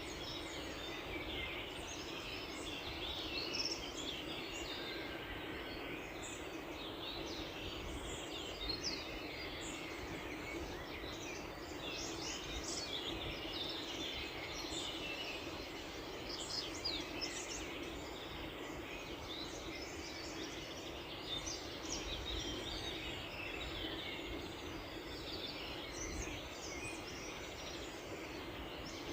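Many small birds chirping and twittering at once, a continuous dawn chorus of short, quick high calls over a steady low background hum.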